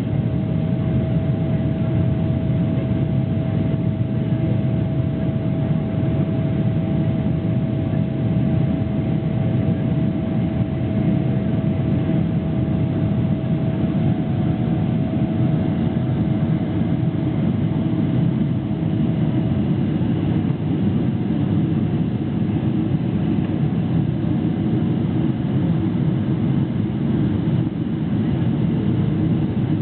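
Boeing 777 cabin noise in flight: the steady rush of the jet engines and airflow. A thin steady whine rides over it and stops about two-thirds of the way through.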